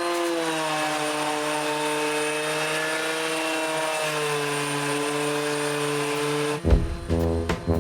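Electric sander running steadily, its motor whine dipping and wavering in pitch as it is worked over the surface. It cuts off suddenly near the end.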